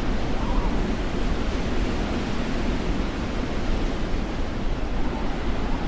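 Strong storm wind buffeting the microphone: a steady rush of noise with a heavy low rumble.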